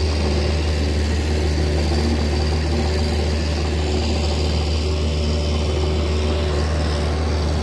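An engine running steadily at idle: an even, unchanging low drone.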